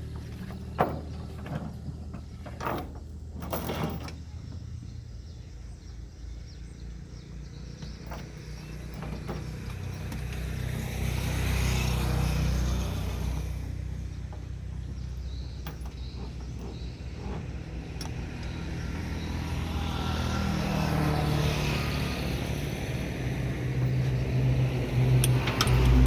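Komatsu D31E-20 bulldozer's diesel engine running under load while it climbs onto a towing truck. The engine swells twice, about ten seconds in and again near the end, and a few sharp metal knocks come in the first four seconds.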